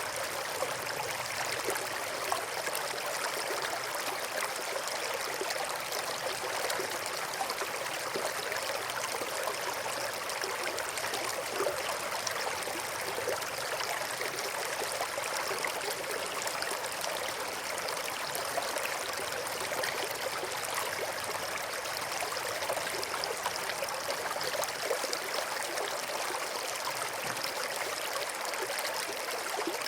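River water flowing and babbling over rocks, a steady rushing with small splashes.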